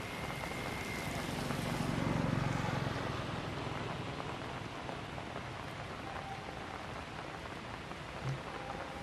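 Light rain falling, a steady hiss of drops, with a low rumble swelling up briefly about two seconds in and a short low thump near the end.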